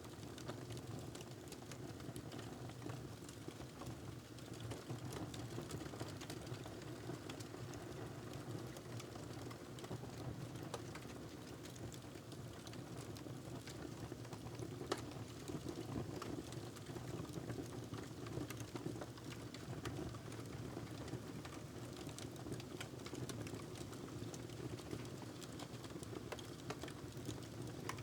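Wood fire crackling in a fireplace: a steady run of small irregular pops and snaps, with one sharper pop about halfway through, over a low steady rumble.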